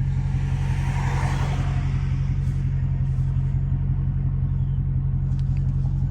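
Straight-piped Dodge Hellcat Redeye's supercharged 6.2-litre Hemi V8 running steadily at low revs, a deep even exhaust drone with no revving.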